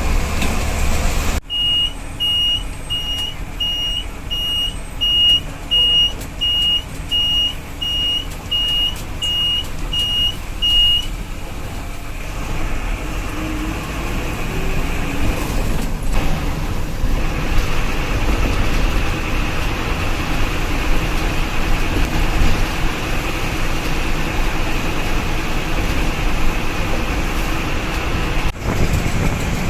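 Bus engine and road noise, heard on board, with a regular high beep about one and a half times a second for the first ten seconds or so, like a reversing alarm; after that the engine and tyres run on steadily as the bus drives.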